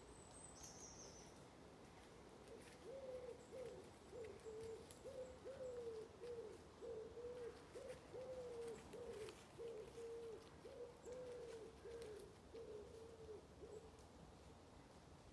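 A bird's low hooting calls: a steady run of short notes, about one and a half a second, each rising slightly and then dropping away, starting a few seconds in and lasting about ten seconds. A brief high chirp comes near the start.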